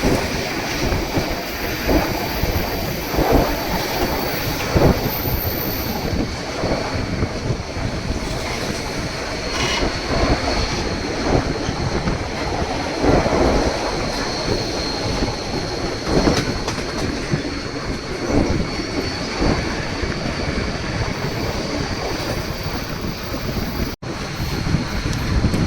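White Pass & Yukon Route narrow-gauge train running on the track: wheels clacking over rail joints under a steady rumble, with a thin wheel squeal held throughout. The sound drops out for an instant near the end.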